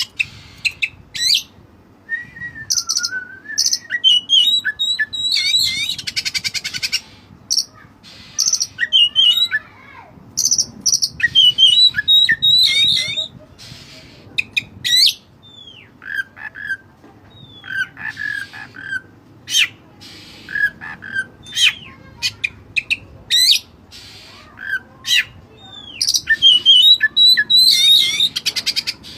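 White-breasted oriental magpie-robin (kacer dada putih) singing continuously: a fast, varied string of clear whistles, up- and down-sweeping notes, sharp chips and rattling trills, with mimicked phrases worked into the song.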